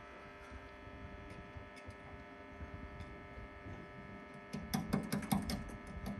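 Steady electrical hum, with a cluster of light clicks and knocks about four and a half to five and a half seconds in.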